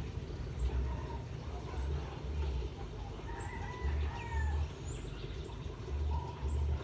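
A rooster crows once, a long call about halfway through. A low rumble comes and goes under it, with a few faint high bird chirps.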